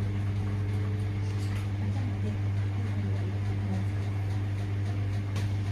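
Washing machine running on a delicates 40 °C wash: a steady low hum with fainter higher hum lines above it and a few faint ticks.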